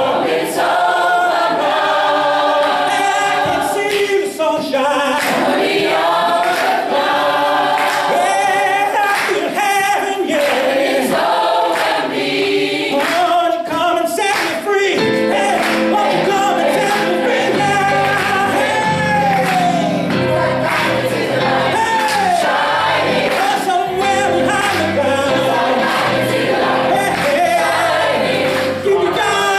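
A choir singing a gospel song with accompaniment.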